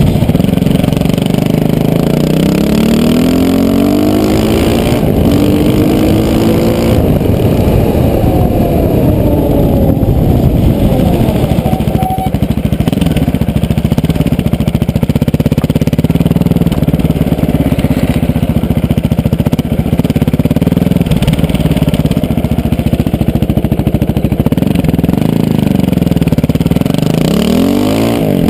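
KTM LC4 620's single-cylinder four-stroke engine under way on the road. Its pitch climbs as it revs up over the first several seconds, falls away, then holds steady at cruising speed, and climbs again near the end.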